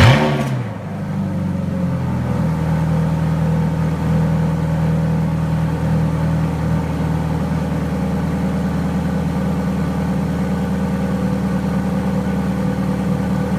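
Ferrari F430's V8 engine catching with a loud flare of revs that rises in pitch, then settling within about two seconds into a steady idle.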